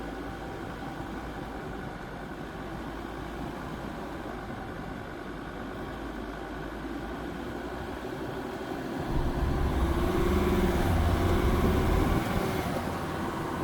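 Jeep Grand Cherokee WJ's 2.7 CRD five-cylinder diesel engine running steadily, then growing louder with a deeper note about nine seconds in for three or four seconds before easing back.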